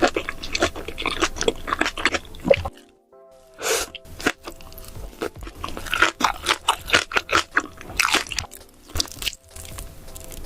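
Close-miked eating sounds of someone chewing beef large intestines: a dense string of quick, irregular mouth clicks and chews, broken by a short pause about three seconds in.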